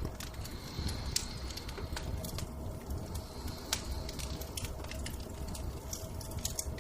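Wood fire crackling, with a steady low rumble of flames and scattered sharp pops.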